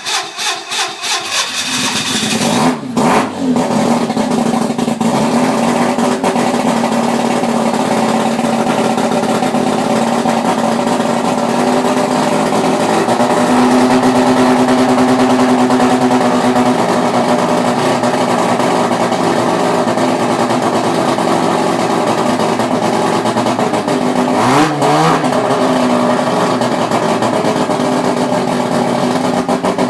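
Mazda 13B bridge-ported twin-turbo rotary engine firing up, uneven for the first couple of seconds, then running steadily at idle. About twenty-four seconds in it is revved briefly and drops back to idle.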